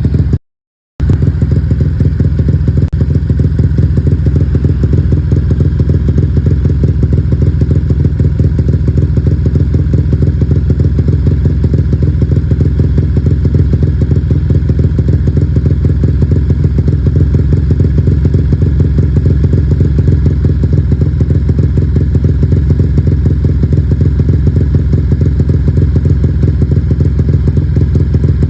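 Yamaha MX underbone motorcycle engine running steadily through a loud aftermarket 'drumband' exhaust (knalpot), a dense, even low pulsing with no revving. The sound cuts out briefly just under a second in.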